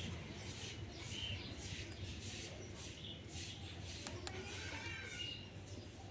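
Pet parrot giving a few short, soft chirps and squeaks, spaced a couple of seconds apart, over a low steady hum.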